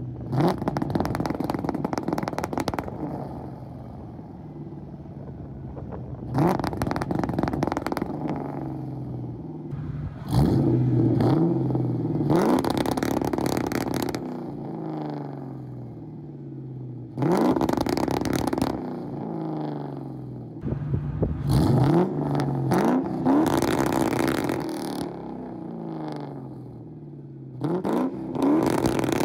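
Ford Mustang's two-valve modular V8 with X-pipe exhaust, revved several times against an MSD 2-Step launch-control limiter set at 3,000, then 4,000, then 5,000 rpm. Each rev rises quickly and holds at the set limit in a rapid stutter as the box cuts spark, then falls back to idle.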